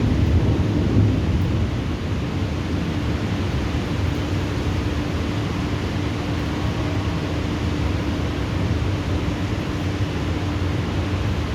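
Thunder rumbling low over steady rain, loudest in the first couple of seconds and then easing to a continuous rumble. A faint steady hum runs underneath.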